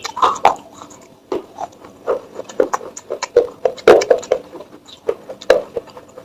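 Baked clay crunching and breaking in irregular crisp clicks and short knocks, several a second, the loudest about four seconds in.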